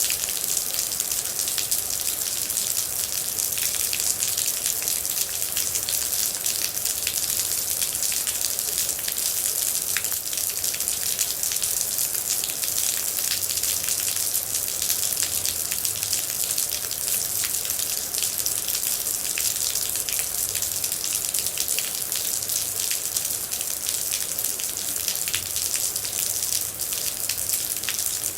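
Steady rain: a dense, even hiss of falling water with many separate droplets ticking close by.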